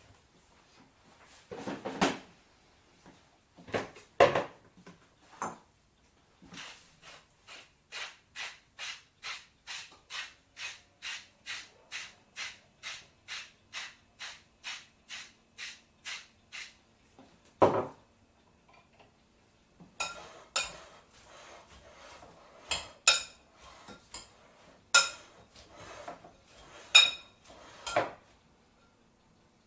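Salad being prepared by hand: a few clattering handling noises, then a knife chopping steadily on a cutting board at about two and a half strokes a second for some ten seconds, then a knock and irregular clinking of dishes and utensils.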